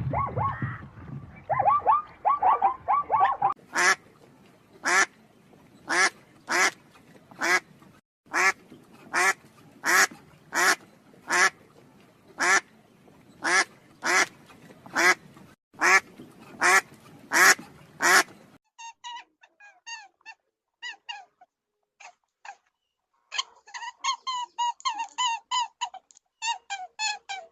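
A series of animal calls. First a brief patch of quick short calls, then about twenty short, loud calls at a steady pace for some fifteen seconds, then high-pitched chirping and squeaking near the end.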